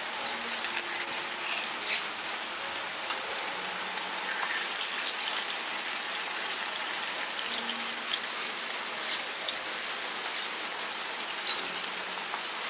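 Chicken pieces sizzling and crackling in shallow oil in a small rectangular frying pan: a steady hiss with many small pops, and one sharper click near the end.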